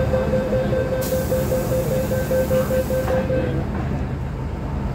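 MTR M-Train door-closing warning: a rapid run of high beeps for about three and a half seconds, with a hiss of air from about one to three seconds in, over the train's steady low rumble.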